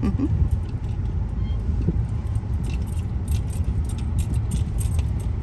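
Cabin noise in a moving car: a steady low road and engine rumble, with light rattling clicks coming and going, most of them in the middle of the stretch.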